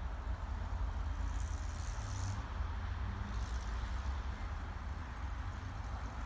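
Freight train rolling slowly away, a steady low rumble, with two brief hissing sounds about one and a half and three seconds in.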